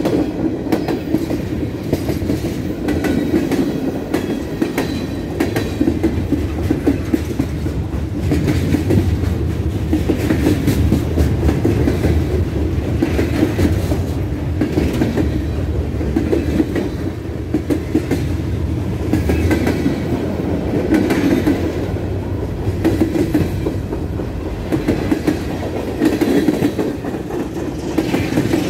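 Freight train rolling past close by, a steady rumble with its wheels clacking over the rail joints car after car.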